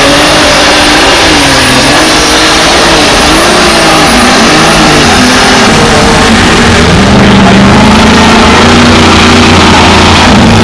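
Light super stock pulling tractor's engine running at high revs, very loud. Its pitch rises and falls for the first half, then holds steady from about six and a half seconds in.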